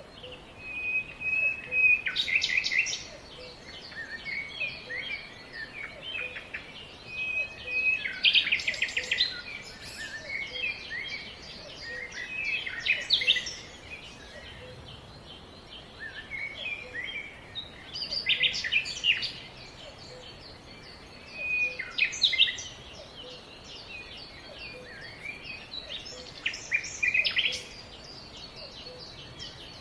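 Songbirds singing in a forest: a loud song phrase, a clear held note followed by a fast trill, repeats about every five seconds, with quieter chirps from other birds between phrases.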